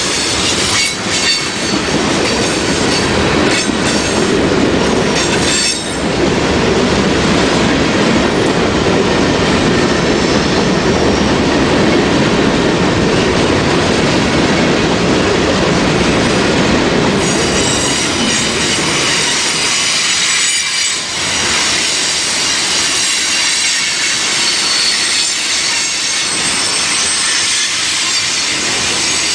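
Train cars rolling past on the rails, a steady loud rumble with wheel squeal. The low rumble eases about two-thirds of the way through while high squealing lines carry on.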